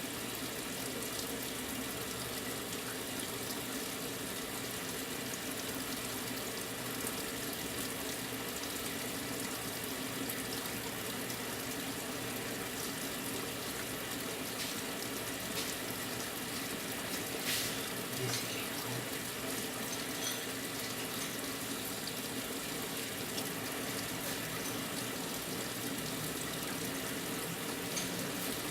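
Brastemp 9 kg washing machine filling its drum with water at the start of a wash cycle: a steady rush of incoming water with a low hum under it, and one brief knock about two-thirds of the way through.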